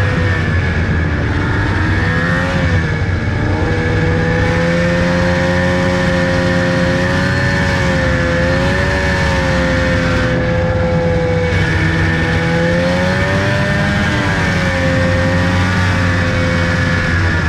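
A vehicle engine running steadily, its pitch swaying gently up and down with small changes of throttle.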